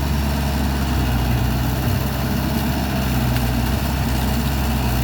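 Caterpillar 312D excavator's diesel engine running at a steady pitch.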